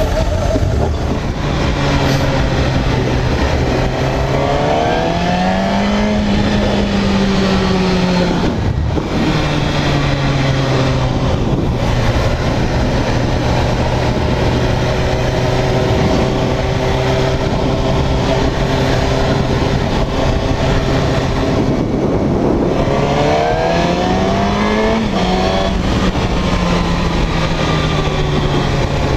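Suzuki GSX-R1000R inline-four sportbike engine under way at steady revs over a constant rush of wind noise. Its pitch rises as it accelerates, about four seconds in and again about twenty-three seconds in, with a brief drop in revs around nine seconds.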